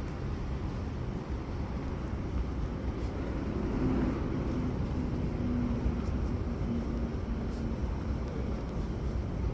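City street traffic rumble, steady throughout, with a low steady hum from a vehicle through the middle that fades out near the end.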